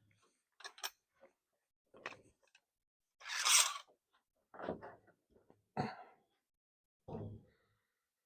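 A series of short scuffs and knocks, about one every second or so, the loudest a brief scrape near the middle.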